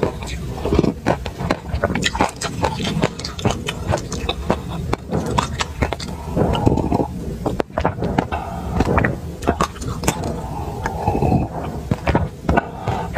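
Close-miked chewing and crunching of a mouthful of dry sesame seeds: a dense run of quick, irregular crackles.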